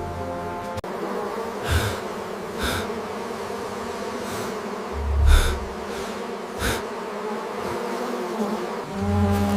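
Swarm of bees buzzing in a steady drone, with several short sharp sounds cutting through it, the loudest about five seconds in.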